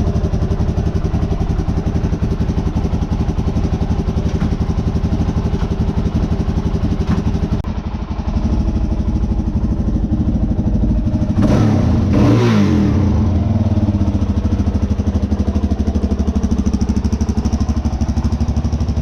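Suzuki DR-Z400 single-cylinder four-stroke engine running steadily in gear as the bike is ridden. About twelve seconds in there is a brief louder swell, its pitch shifting and then falling.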